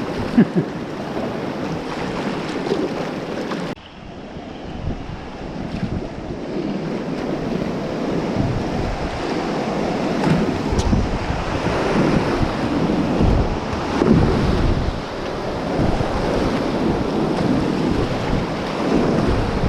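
Whitewater rapids rushing and splashing around a kayak, with wind buffeting the microphone. The sound drops suddenly about four seconds in, then builds up again.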